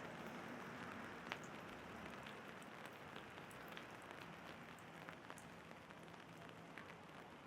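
Faint steady rain with scattered drops ticking on an umbrella, one sharper drop hit about a second in.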